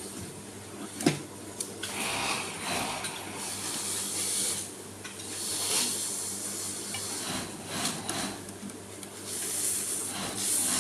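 Handling noises of small sewing-machine parts: irregular rubbing and light clattering, with a sharp click about a second in.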